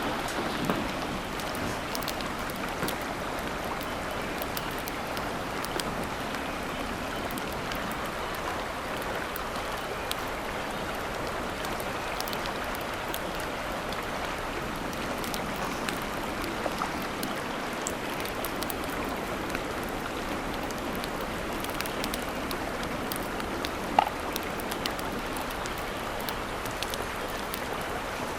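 Steady rushing of water, with faint scattered ticks and one sharper click near the end.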